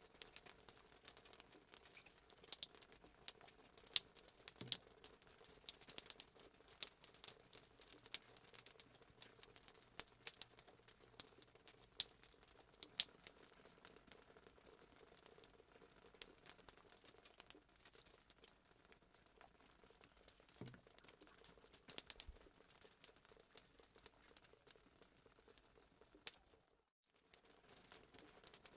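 Fireplace sound effect: a wood fire crackling and popping in quick, irregular snaps over a faint hiss, briefly cutting out altogether near the end.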